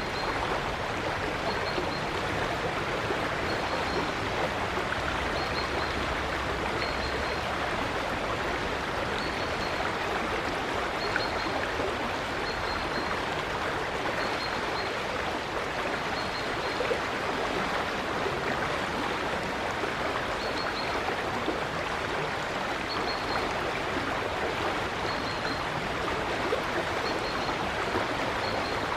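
River water flowing with a steady rush. Over it a small bird repeats a short, high double call every second or two.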